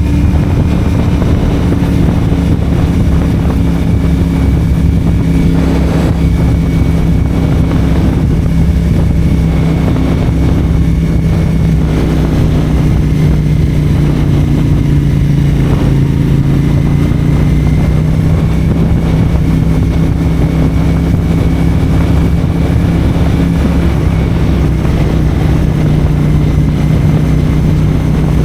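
CFMoto 450SR parallel-twin engine running through a Yoshimura AT2 slip-on exhaust while riding, at a nearly steady pitch that dips slightly about halfway through, with wind noise underneath.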